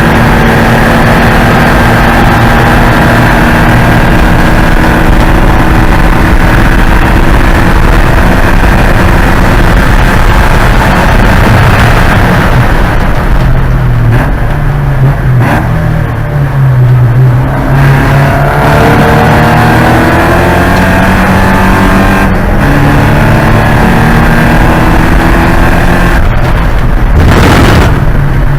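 Porsche 944 Spec race car's four-cylinder engine running loud at full throttle; about halfway through it eases off with the pitch falling, as when braking for a corner, then the revs climb again in steps through the gears.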